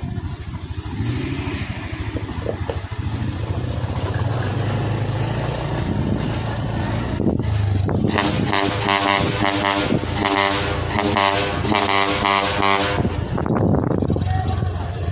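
Heavy truck engine running under load on a climb. From about 8 to 13 seconds a louder, higher-revving engine note with a fast pulse comes in, then falls back to a low steady drone.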